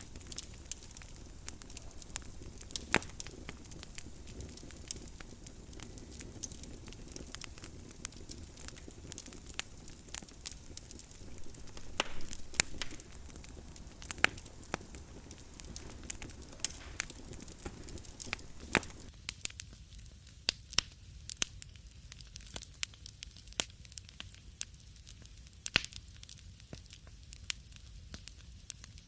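Wood fire crackling in a fireplace, with frequent sharp pops and snaps over a low steady rush of flame. About two-thirds of the way in the low rush drops away, leaving sparser crackles.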